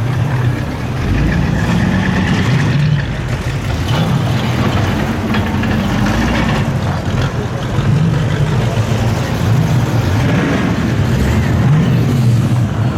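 V8 muscle car engines running loud on the street, the deep rumble swelling and rising in pitch several times as the throttle is opened.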